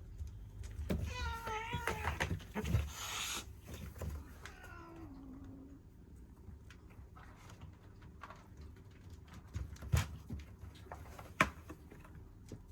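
Domestic cats fighting: a wavering yowl about a second in, a hiss just after, then a lower drawn-out call that falls in pitch. Later come a few sharp knocks and scuffles, the loudest about ten seconds in.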